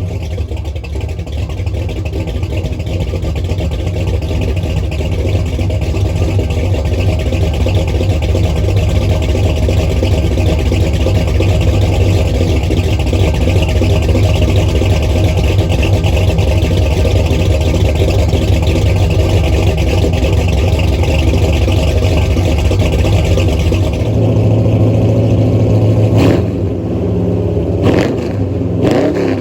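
1968 Ford Mustang's 460 big-block V8, breathing through longtube headers and Thrush mufflers, running loud and steady. Its note changes about three-quarters of the way through, and near the end there are a few quick revs rising and falling.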